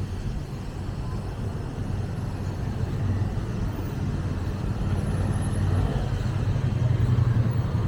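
Street traffic rumble, a vehicle's engine hum growing steadily louder toward the end.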